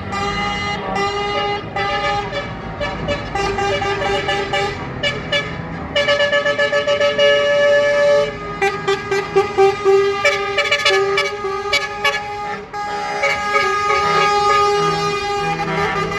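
Truck air horns sounding, several at once in different pitches, with long held blasts throughout and a run of short repeated toots from about six seconds in.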